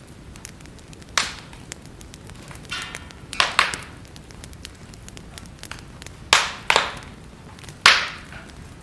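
Wood fire crackling: a steady low hiss full of small ticks, with about half a dozen sharp, louder pops, the loudest near the end.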